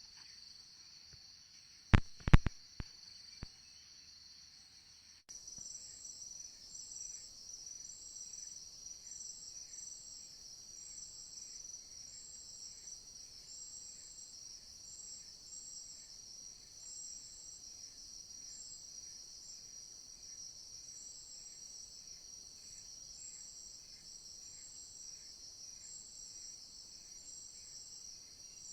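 Forest insects chirring: a steady high-pitched drone with a pulsing chirp repeating about once a second. Two sharp knocks about two seconds in are the loudest sounds.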